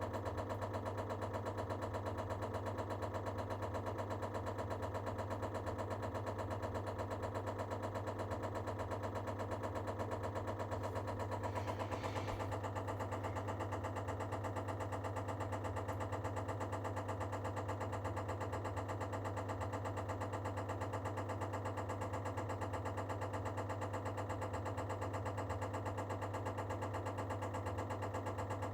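Baxi Duo-tec combi boiler running with a steady low hum and a fast, even knocking while it prepares to fire for heating, a noise whose cause the owner does not know. A brief hiss about twelve seconds in.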